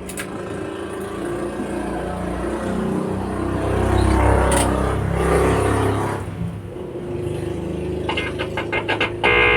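Sound played through a speaker by a just-repaired Konzert 502B amplifier during an input test: a low rumbling sound swells to its loudest about halfway, then short choppy repeated tones come in near the end.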